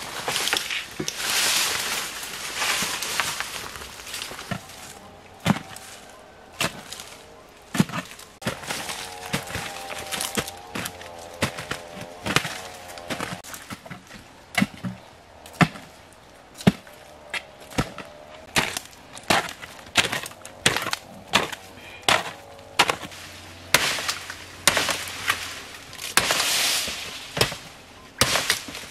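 Repeated sharp knocks and cracks at irregular intervals, like wood being struck or snapped, with rustling at the start and near the end and a faint wavering whine in the middle.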